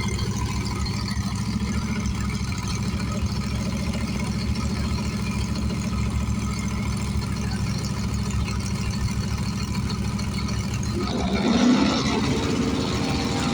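Drag race car's engine idling with a steady low rumble; about eleven seconds in it grows louder and higher as the revs are raised.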